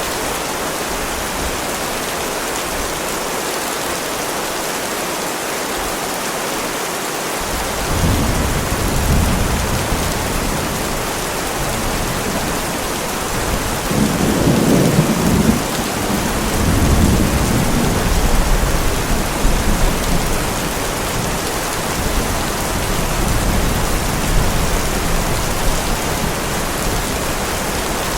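Heavy rain falling steadily. A little over a quarter of the way in, a long roll of thunder begins, deep and rumbling, grows to its loudest around the middle, then slowly dies away under the rain.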